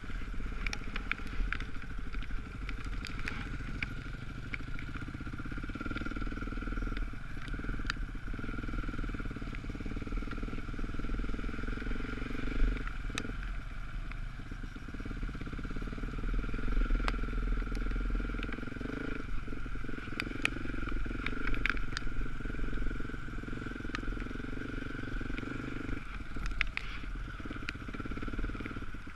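Off-road dirt bike engine running while the bike is ridden, with the throttle easing off briefly several times. Scattered sharp clicks and knocks sound over the engine.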